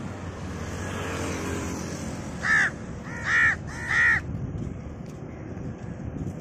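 Crows cawing: three loud caws in quick succession, a little over two seconds in, over a steady low rumble.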